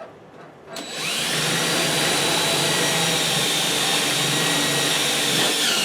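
Electric power tool motor spinning up, running steadily for about five seconds with a high whine, then cutting off.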